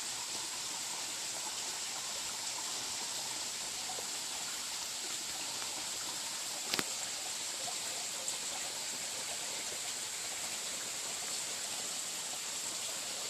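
Mountain valley stream rushing steadily over rocks, with a single short click about seven seconds in.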